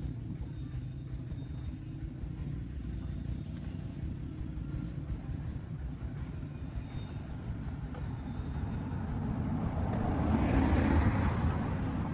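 A motor engine running with a steady low rumble that swells louder near the end.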